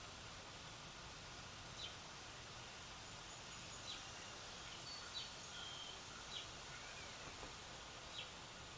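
Birds chirping outdoors: short, thin, falling chirps about every one to two seconds, with a few brief high notes, over a steady background hiss.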